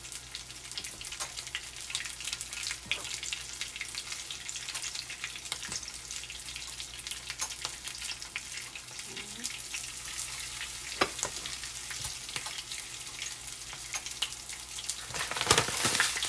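Breaded oysters shallow-frying in hot oil in a nonstick pan: a steady sizzle with scattered crackles and pops. It grows much louder near the end, when a second coated oyster goes into the oil.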